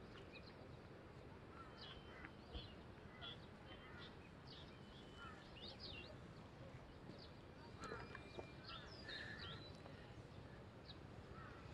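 Faint birdsong: many short, scattered chirps and whistles over a low, steady outdoor background noise.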